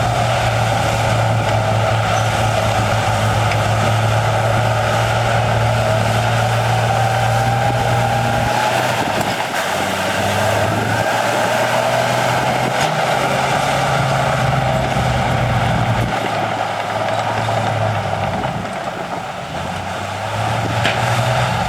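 Heavy diesel earthmoving machinery running under load, a continuous engine drone whose low note shifts several times and dips briefly near the end.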